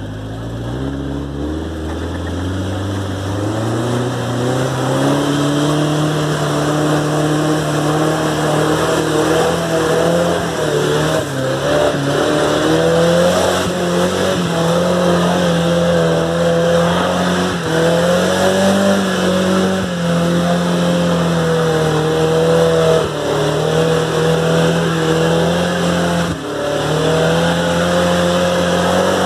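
A 4x4's engine revving hard as it drives through mud and water. The revs climb over the first few seconds, then hold high and rise and fall, over a steady hiss of tyres throwing up mud and water.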